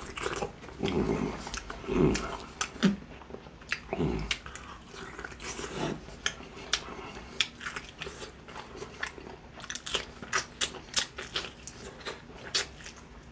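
Close-miked chewing and biting of crispy fried chicken: the breaded crust crunches in many sharp, irregular crackles.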